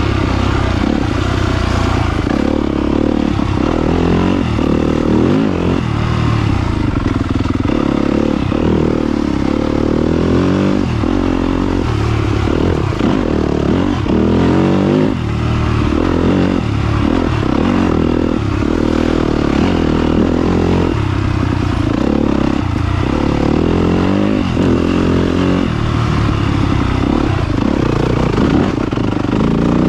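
2022 Yamaha YZ250FX dirt bike's single-cylinder four-stroke engine being ridden hard, its pitch rising and falling over and over with throttle and gear changes, with some clatter and scrape mixed in.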